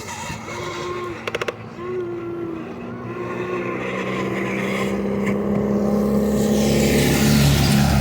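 A vehicle engine running and getting steadily louder over the second half, as if drawing nearer, after a brief quick run of clicks about a second and a half in.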